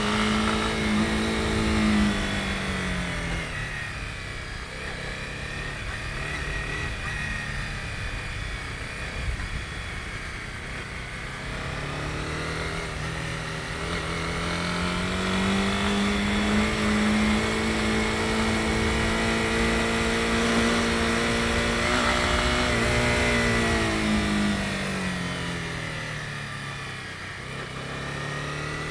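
Honda CB250R's single-cylinder engine under way. The engine note holds high, drops as the throttle closes about two seconds in, climbs again from about twelve seconds, holds, then falls away once more near the end.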